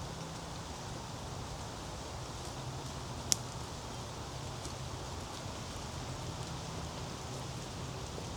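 Steady outdoor woodland background noise with soft rustling, broken by one sharp, brief click about three seconds in.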